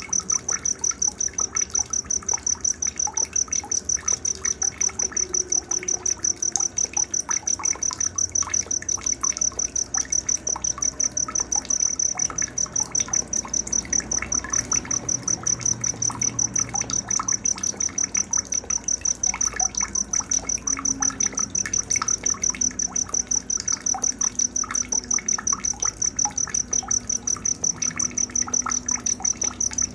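Night nature-sound recording for tutoring songbirds: a high-pitched chirp repeated steadily, about four times a second, with faint scattered calls underneath.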